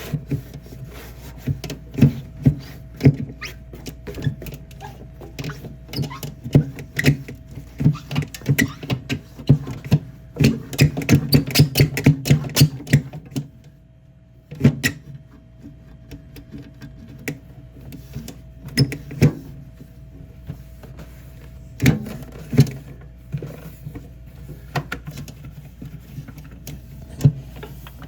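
Cleaning cloth wiping and scrubbing the inside of a mini fridge, with irregular knocks and clunks against its walls and shelves; the scrubbing comes fastest about ten to thirteen seconds in.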